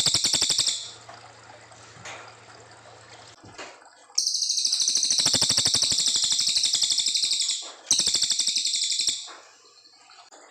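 Cililin coklat songbird singing long, very fast high-pitched trills: a short one at the start, then a long trill of about four seconds and a shorter one right after it.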